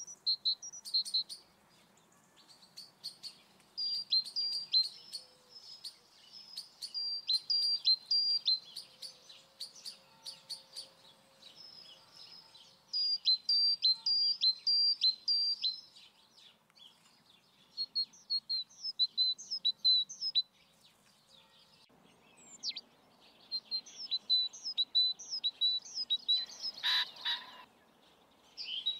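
Small songbirds singing: phrases of quick high chirps repeated every few seconds, with a short, louder, fuller call near the end.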